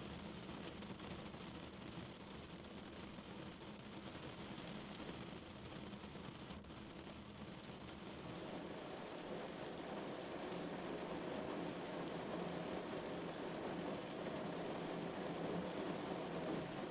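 Rain falling steadily on a car, an even noise that grows louder from about halfway through.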